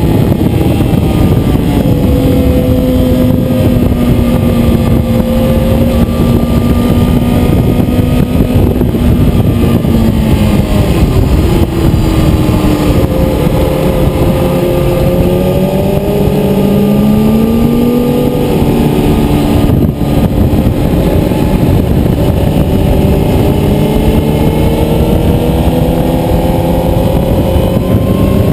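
Motorcycle engine running hard on a racetrack, its note climbing and falling several times as the bike accelerates and slows through the corners.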